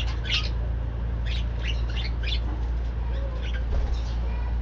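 A colony of budgerigars chirping and chattering, short high chirps coming thick and fast over a steady low hum.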